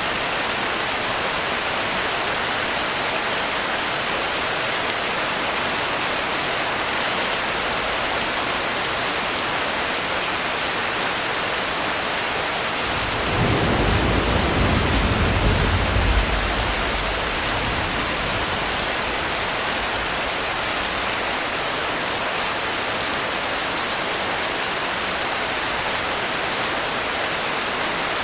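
Steady rainfall, an even hiss throughout. About halfway through, a low roll of thunder swells and fades over about four seconds.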